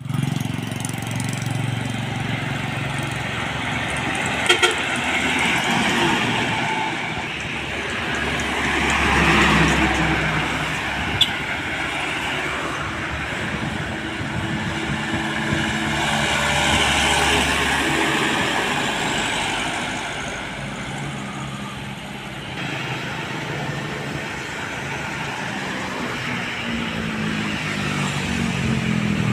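Road traffic passing close by: heavy trucks and other vehicles going past one after another, the engine and tyre noise swelling and fading as each one passes. There are a couple of sharp clicks, one a few seconds in and another near the middle.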